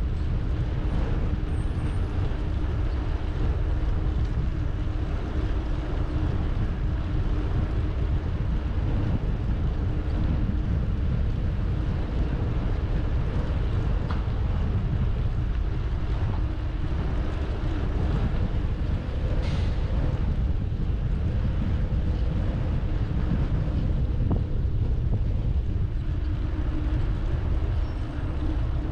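Wind buffeting the microphone of a camera carried on a moving bicycle, a steady low rumble with no letup.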